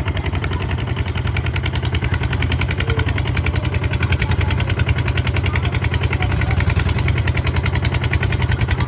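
Tractor engine running steadily with a rapid, even beat of firing strokes.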